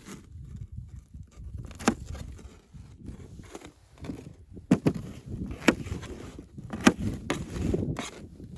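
Wood being chopped: several sharp, uneven chopping strikes, one about two seconds in and then about one a second through the second half.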